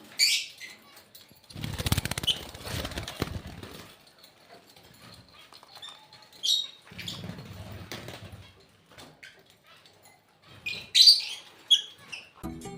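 Pet breeding birds chirping in short high calls and fluttering their wings, with two spells of wing-flapping between the calls.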